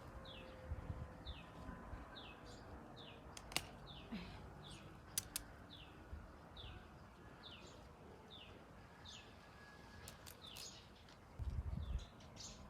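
A bird calling over and over, short falling chirps about two a second, with a few sharp clicks in between and a low rumble near the end.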